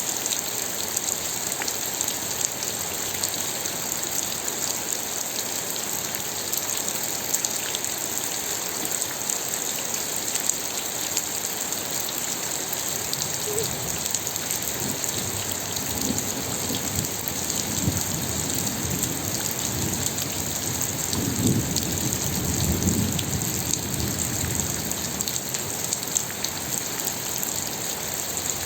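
Steady rain falling, a dense hiss with many small drop ticks. About halfway through, a low rumble builds, peaks, then dies away near the end.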